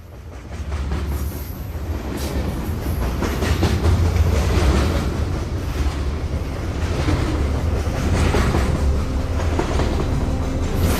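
A train running: a heavy low rumble with rushing noise that swells in from silence over the first couple of seconds, then holds steady with a surge every second or two.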